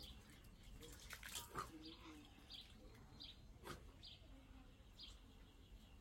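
Faint bird chirps in the background: short high notes repeating about every half second to a second from about two seconds in, with a few faint sharp knocks before and among them.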